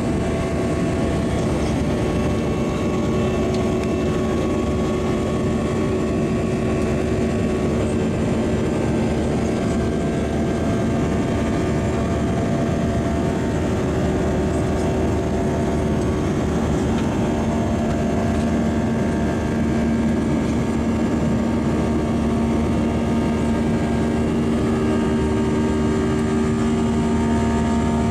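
Airbus A320's engines and airflow heard from inside the passenger cabin: a steady loud drone with an even hum, typical of the climb after takeoff.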